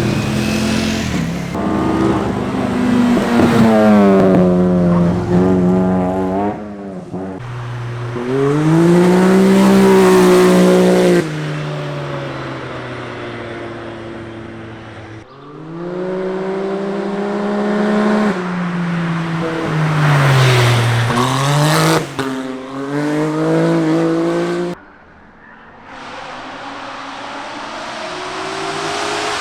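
Performance car engines revving hard as the cars pass one after another, each engine's pitch climbing and falling, with some tyre squeal.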